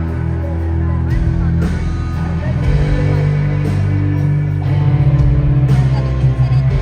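Live rock band playing an instrumental passage: electric guitar over sustained bass notes and drums, loud and steady.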